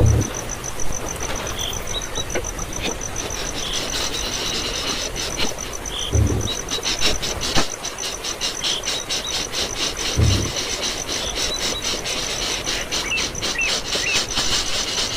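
Steady, rapidly pulsing high-pitched insect trill like a cricket's, with a few short chirps and scattered clicks, and a low thump every few seconds.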